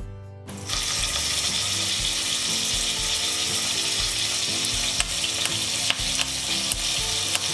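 Cumin seeds tempering in hot oil, a steady sizzle that starts about half a second in, with a few sharp pops as spices and curry leaves hit the oil.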